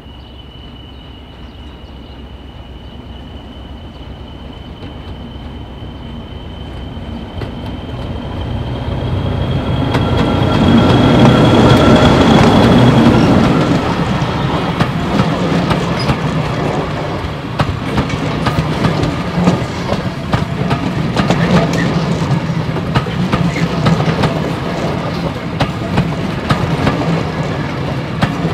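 A diesel locomotive hauling passenger coaches approaches with a steady high whistle rising slightly in pitch, grows loudest as it passes about eleven to thirteen seconds in, and the whistle stops. Then the coaches roll by with a rhythmic clickety-clack of wheels over rail joints.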